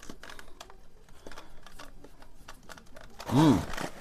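Faint scattered clicks and rustling from handling, then a short spoken syllable about three seconds in.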